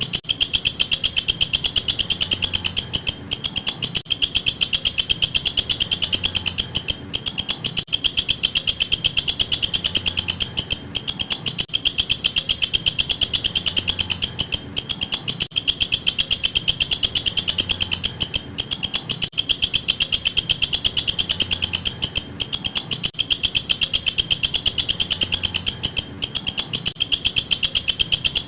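Walang kecek katydid singing: a loud, continuous, very rapid high-pitched pulsing chirr, broken by brief pauses every few seconds. It is played as master audio for training songbirds.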